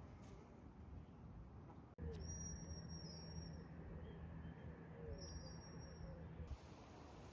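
A bird singing outdoors: two long, high whistled notes, the second about three seconds after the first, over faint background ambience.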